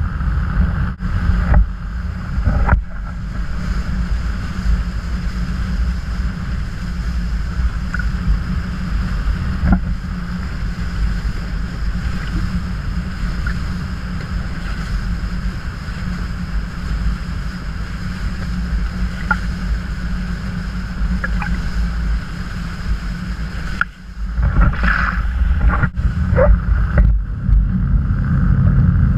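Motorboat under way: a steady, heavy rumble of engine and hull running through the water, with wind buffeting the microphone. The sound briefly drops out near the end, then returns.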